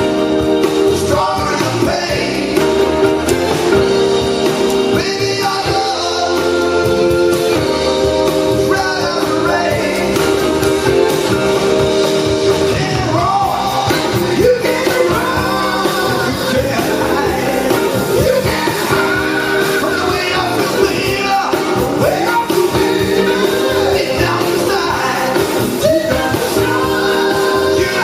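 Live blues band playing a song, with a vocalist singing over the band.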